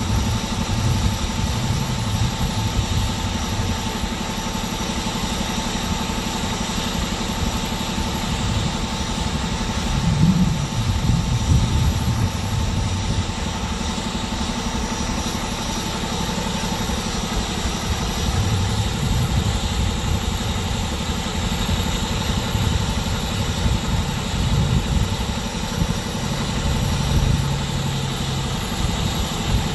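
A vehicle engine idling steadily, a low, constant rumble.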